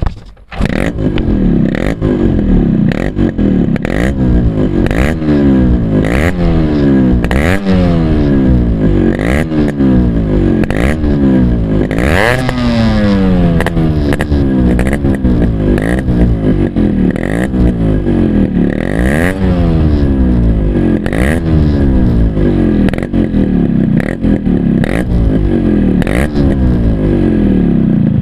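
Yamaha RX 100's two-stroke single-cylinder engine revved in repeated throttle blips about once a second, its exhaust note rising sharply and falling back each time. It is loud.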